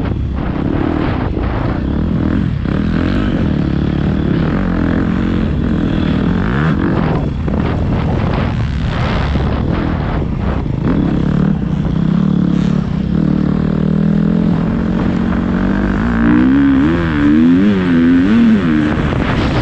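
Motocross dirt bike engine running hard, its revs rising and falling as it rides. Near the end comes a quick series of short rev ups and downs.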